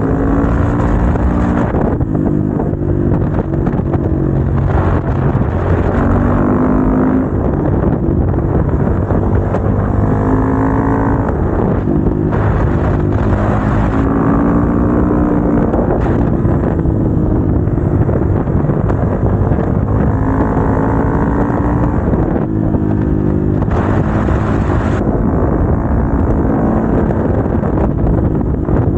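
Motorcycle engine on the move, its revs climbing and dropping again and again as it pulls through the gears, with several short bursts of hiss.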